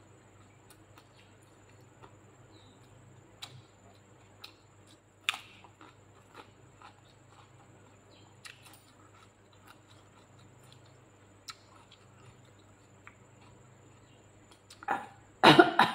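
Close-up mouth sounds of someone chewing a meal: scattered soft clicks and wet smacks, with a louder burst of eating noise about a second before the end.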